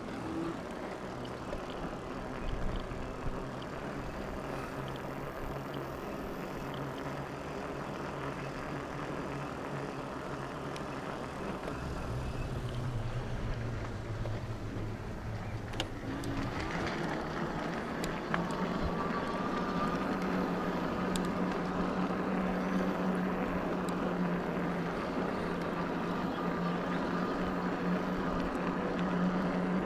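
Electric bike's motor humming steadily while it is ridden, over tyre and wind noise. About halfway through the hum shifts higher and gets louder, with a faint higher whine joining it.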